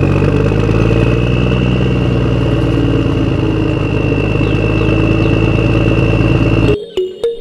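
A small motor running steadily, with a dense low drone and a thin high whine that rises slightly, then cutting off abruptly near the end.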